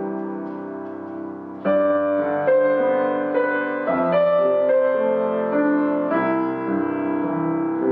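Solo piano playing slow, sustained chords. It swells with a louder chord about a second and a half in, then moves from chord to chord about once a second.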